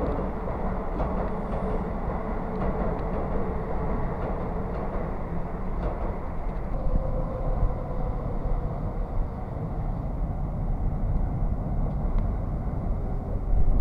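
Electric commuter train running past on the tracks: a steady rumble with a faint whine over it in the first half.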